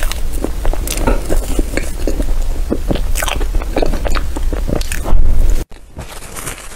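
Close-miked eating of a soft matcha dessert: chewing and biting with many quick wet mouth clicks and smacks. Just after five seconds it gets loud, then it cuts out for an instant and carries on quieter.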